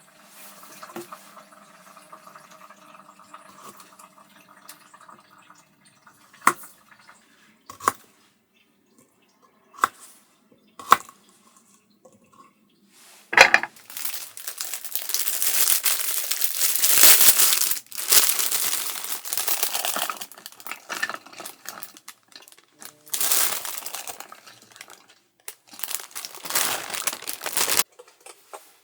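Close handling sounds: a few separate sharp clicks, then three long spells of noisy rustling, the first and loudest starting about halfway through.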